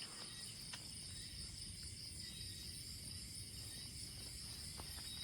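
A steady night chorus of insects such as crickets, several high-pitched trills going on without a break, with a few faint clicks.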